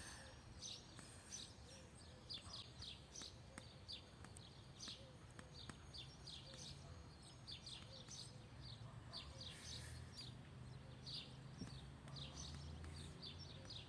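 Faint birds chirping, many short quick chirps in a row, over a low steady background hum.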